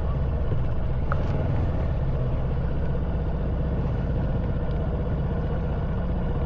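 Honda Wave 110cc motorbike's single-cylinder four-stroke engine running steadily at low speed, heard from the rider's seat.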